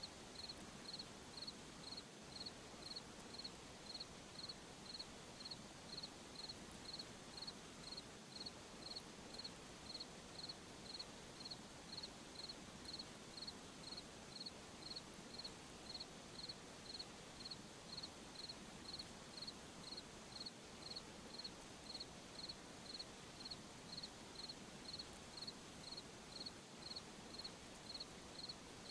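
Cricket chirping at night, a single high chirp repeated evenly about one and a half times a second, over a faint steady hiss.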